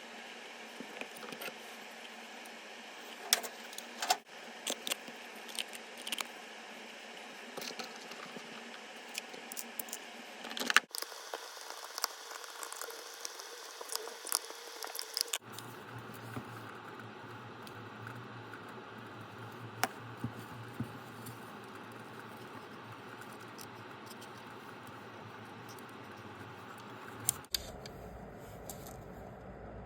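Scattered light clicks, taps and rattles of small plastic parts as an automatic soap dispenser's motor, pump tube and housing are fitted back together, over a steady hiss. The handling is busiest in the first half, and the background changes abruptly a few times.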